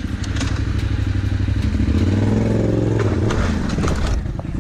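Motorcycle engine running, its pitch rising to a peak about halfway through and easing back down.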